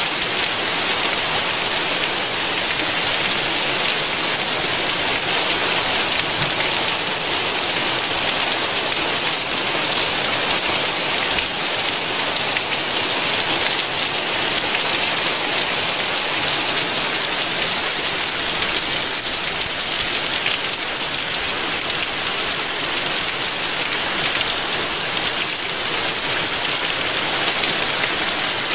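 Heavy rain pouring down onto a flooded street and curb, a dense, steady hiss of drops splashing on standing water and pavement.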